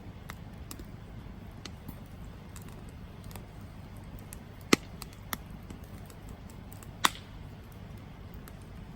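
Campfire crackling over a low steady rumble, with scattered small snaps and three louder pops in the second half, the two loudest a little over two seconds apart.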